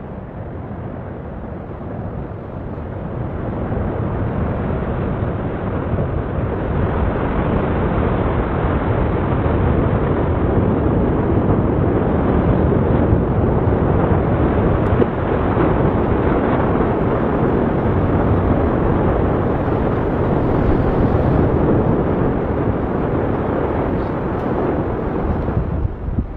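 Volcanic eruption: a loud, continuous rumbling noise that builds over the first several seconds and then holds steady.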